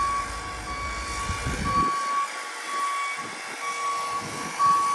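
A vehicle's backup alarm beeping at a steady pitch, about once a second, over a low rumble that stops about two seconds in.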